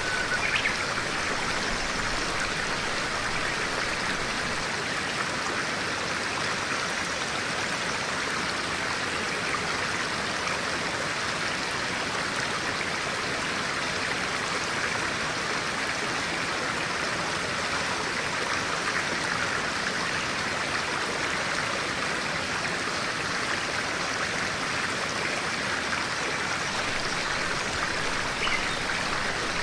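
A clear-water stream flowing with a steady, even rush of water.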